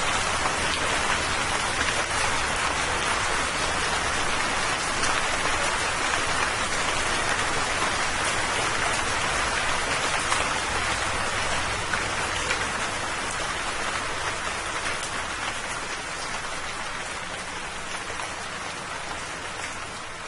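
Steady rain falling, a dense even hiss of drops with scattered ticks of individual drops. It slowly fades out over the second half.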